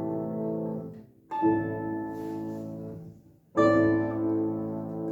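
Instrumental music: sustained keyboard chords, a new chord struck about a second in and again about three and a half seconds in, each fading slowly.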